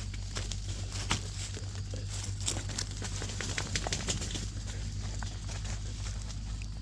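Dry leaf litter and twigs crackling and rustling in quick, irregular clicks, the sound of moving through forest ground cover while searching for mushrooms.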